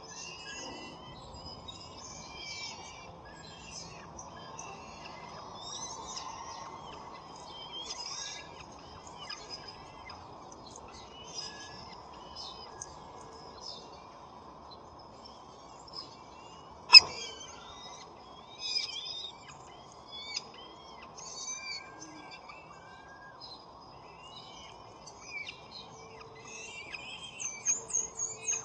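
Small birds chirping and singing in many short, varied calls throughout, over a faint steady hum. A single sharp click sounds about halfway through.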